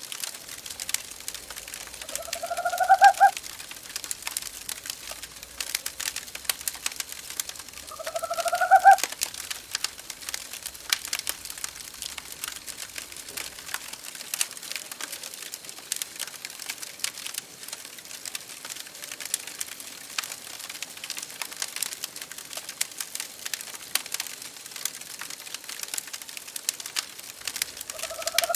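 A wood fire crackling with small pops throughout, while an owl calls twice, each a rising hoot about a second long, a couple of seconds in and again about six seconds later; another call begins at the very end.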